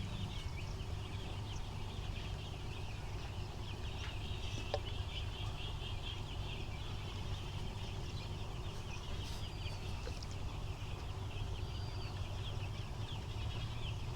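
A flock of seven-day-old broiler chicks peeping, many short high chirps overlapping without pause, over a steady low hum.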